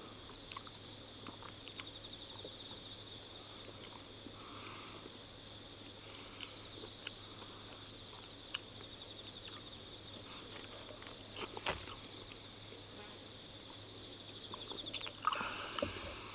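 A steady chorus of insects, crickets or similar, trilling in fast pulses at a high pitch, with a faint low hum beneath and a few scattered clicks.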